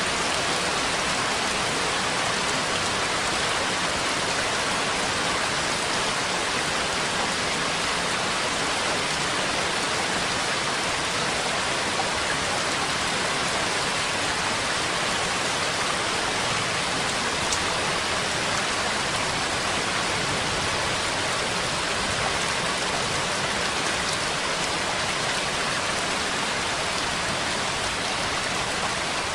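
Steady rain falling, an even hiss of many drops that keeps at the same level throughout.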